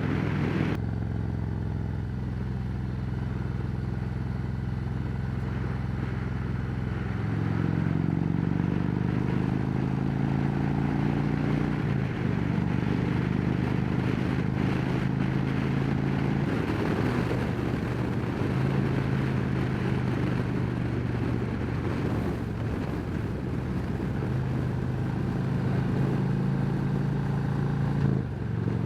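Harley-Davidson Road Glide Special's V-twin running at road speed through Rinehart Racing Slimline True Duals exhaust with DBX40 baffles, heard from the rider's helmet mic with wind noise. The engine note steps up and down a few times as the rider works the throttle and gears.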